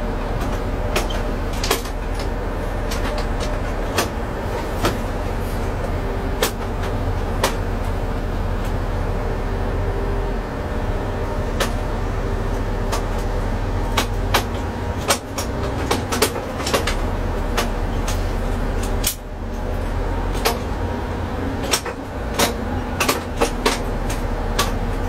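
Cab sound of a DSB IC3 diesel train: a steady low drone with scattered sharp clicks and knocks. Level drops briefly about 19 seconds in.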